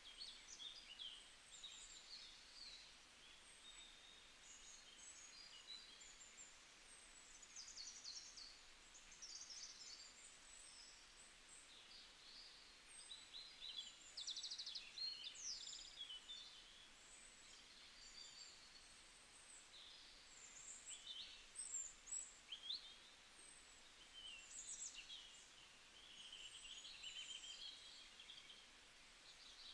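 Faint birds chirping and twittering, many short irregular calls overlapping, over a low steady hiss.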